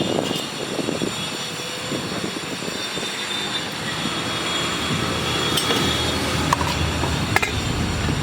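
Steady rumble of passing vehicles with faint high-pitched whining tones, the rumble growing louder about halfway through, and a couple of brief clicks near the end.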